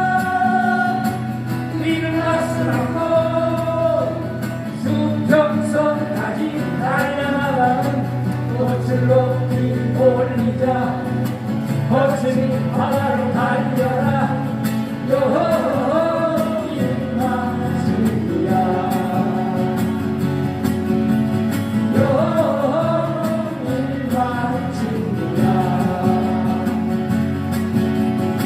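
A song performed live: a singer with acoustic guitar accompaniment.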